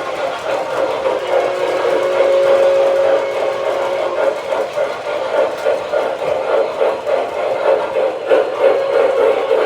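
O scale MTH Proto-Sound 2 model steam locomotive sounding its two-tone steam whistle through its onboard speaker, held for about three seconds, over steady chuffing and the rumble of the train running on the track.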